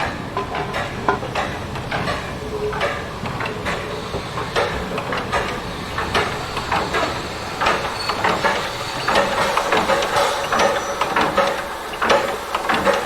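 Harz narrow-gauge railway train sounds: irregular clanks and clicks over a steady hiss, with a faint steady tone coming in during the second half.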